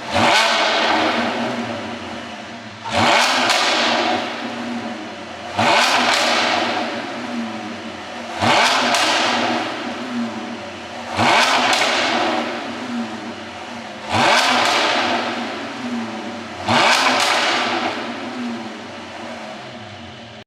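Porsche 718 Boxster GTS's 4.0-litre flat-six blipped seven times, about every three seconds, each sharp rev followed by a long run of exhaust pops and crackles as the revs fall, from an ECU pop-and-crackle tune.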